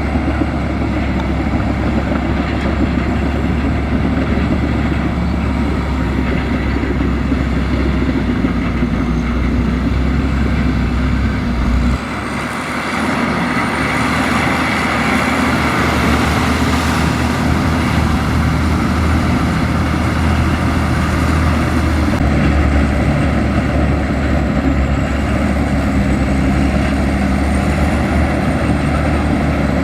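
Heavy diesel engine of a Komatsu bulldozer running steadily under work. Partway through, the deep hum drops and a hissing, grinding noise rises for several seconds before the steady drone returns.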